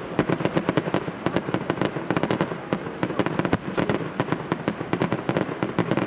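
Aerial fireworks bursting in rapid, continuous succession: a dense crackle of sharp bangs, many a second, with heavier booms among them.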